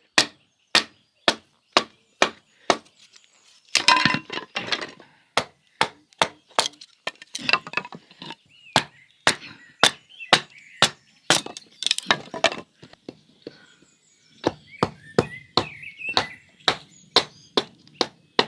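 Steady chopping with a knife, sharp strokes about two a second, with a short pause near the end.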